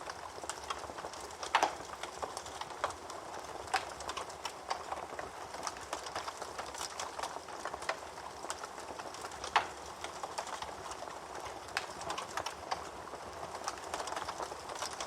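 Wood fire burning in a fireplace, crackling steadily with irregular sharp pops; the loudest pops come about a second and a half in, near four seconds and near ten seconds.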